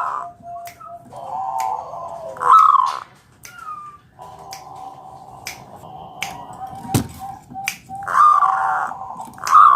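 Zebra dove (perkutut) cooing: runs of rolling, warbling coos, loudest about two and a half seconds in and again from about eight seconds to the end, with a lower held coo between them. Short sharp clicks sound every second or so.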